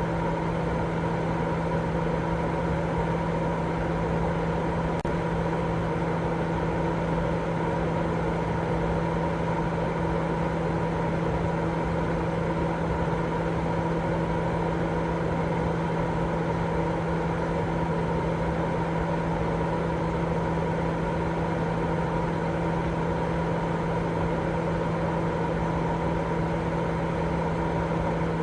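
Continuous steady sleep noise for babies: an even hiss with a constant low hum and a few steady tones running through it, unchanging throughout.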